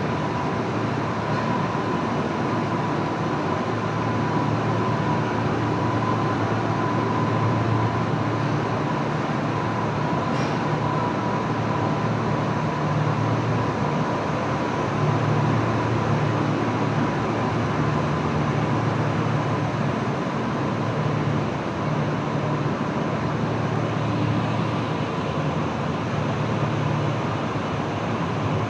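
Kintetsu train running at steady speed: an even rumble of wheels and running gear with a thin, constant whine above it.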